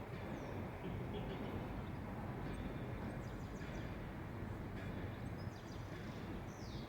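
Small birds chirping a few times over a steady low rumble of railway station background noise.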